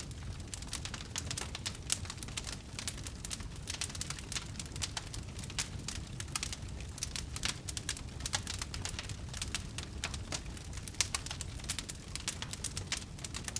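Wood fire burning in a fireplace, crackling with frequent sharp pops and snaps over a low, steady rumble of flame.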